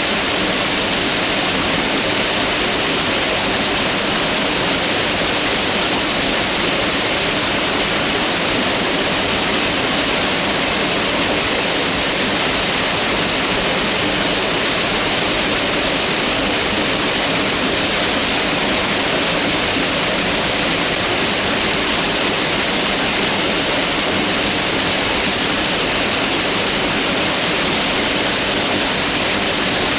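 Mountain river rushing steadily over rocks, a continuous even roar of water with no changes.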